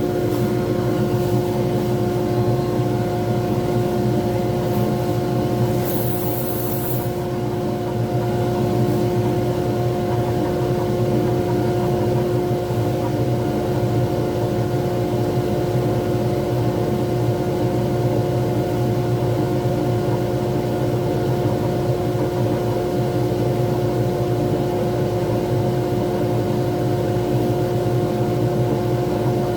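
Lathe motor running steadily, a constant machine hum, with a brief high hiss about six seconds in.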